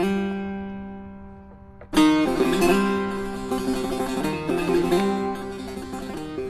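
Instrumental music on a plucked string instrument: a note rings out and dies away, then a louder strike about two seconds in is followed by quick repeated notes that fade near the end.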